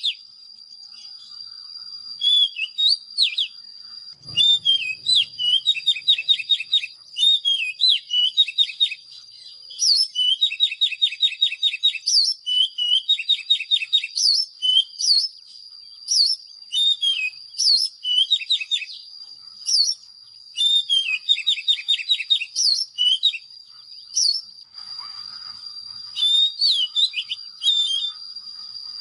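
Oriental magpie-robin singing: bouts of clear whistled notes that slur up and down, mixed with rapid trills, broken by short pauses. A steady high-pitched tone runs underneath the song.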